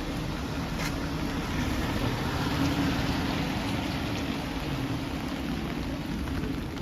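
Steady hiss of rain on a wet city street with a vehicle engine running, a low hum that swells a little midway; a single tap a little under a second in.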